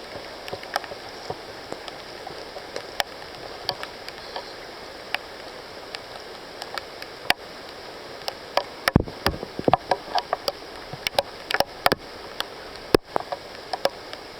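Steady rain on rainforest foliage, with irregular sharp taps and snaps that come thickest from about nine to thirteen seconds in: footsteps and brush being pushed aside while hiking through the undergrowth.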